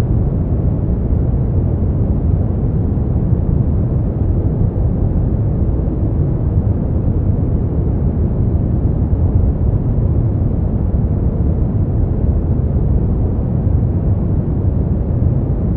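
Brown noise: a steady, deep rumbling hiss, strongest in the bass and falling away toward the treble, with no changes.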